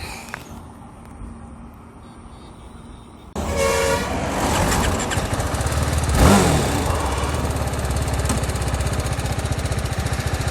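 TVS Apache RR 310's single-cylinder engine coming in suddenly about three seconds in with a short horn toot, then running steadily with an even low pulse and one brief throttle blip about six seconds in.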